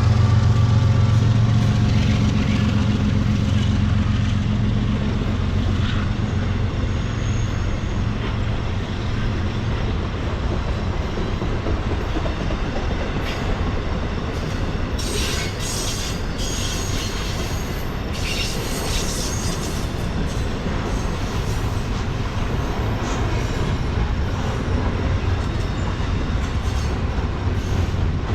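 Diesel-hauled freight train rolling past. The low drone of the locomotives is heavy at the start and eases after a few seconds, leaving the steady rumble and clack of the cars' wheels on the rails. Brief high wheel squeals come about halfway through and again a few seconds later.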